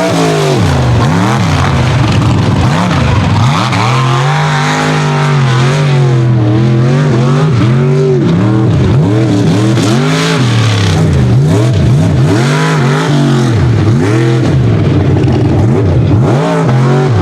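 Mega truck engine at high revs on a racing course, loud and steady. Its pitch dips and climbs again every second or two as the throttle is worked.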